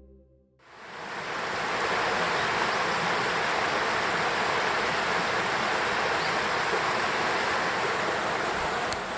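Steady rushing of a fast-flowing stream, swelling in over about a second and then holding level.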